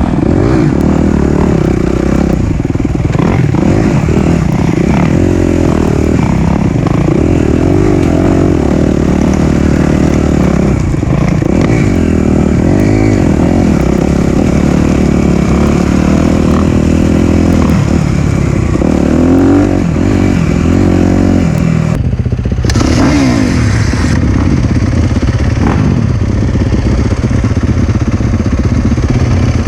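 Single-cylinder four-stroke dirt bike engine under way on a trail, its revs rising and falling over and over as the rider works the throttle.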